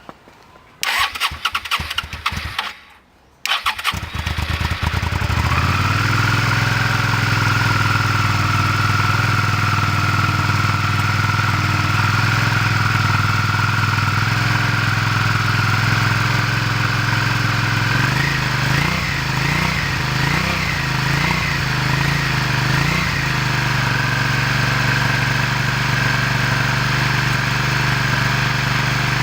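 Suzuki SV650 V-twin on its stock exhaust being started: the starter cranks briefly, then cranks again and the engine catches and settles into a steady idle. Later the idle rises and falls about five times with light throttle blips, then it idles steadily again.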